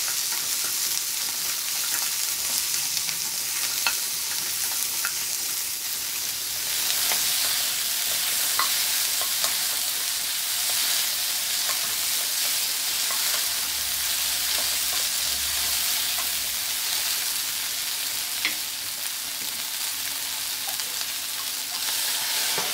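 Diced vegetables and chicken breast sizzling in oil in a nonstick frying pan while being stirred with a spatula, with scattered light clicks as the spatula knocks the pan. The sizzle grows louder about seven seconds in.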